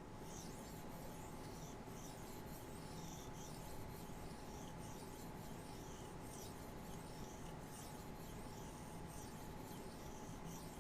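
A Maxamet steel knife blade rubbed in repeated strokes across a hard flat sharpening surface, a light scraping at roughly one and a half strokes a second.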